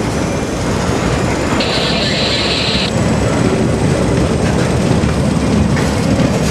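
CSX freight train's cars rolling past close by: a loud, steady rumble and rattle of steel wheels on the rails, with a brief hiss about a second and a half in.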